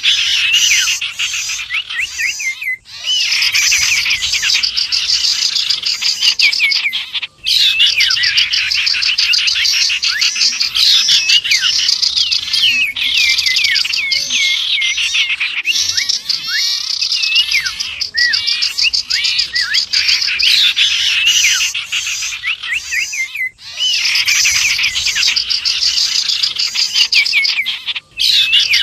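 Bird-lure recording of common ioras (cipow) mixed with other small birds: a dense, continuous chorus of rapid high chirps and gliding whistles, cut by a few brief silent breaks.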